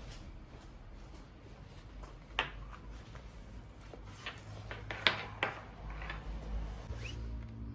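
Several light clicks and knocks of things being handled indoors, the sharpest about five seconds in, over a low steady hum.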